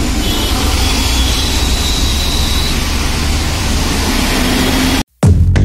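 Steady, loud rumble and hiss of road traffic. It cuts off suddenly about five seconds in, and a loud music beat starts right after.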